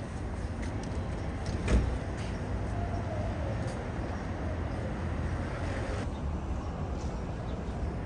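Steady low city street traffic noise, with one sharp knock just under two seconds in and a faint, slightly falling whine a little later.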